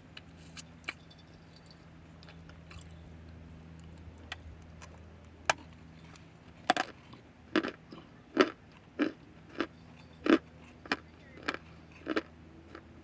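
Chunks of cornstarch being bitten and chewed close to the mic: a few faint crunches at first, then from about halfway a run of sharp crunches roughly every half second.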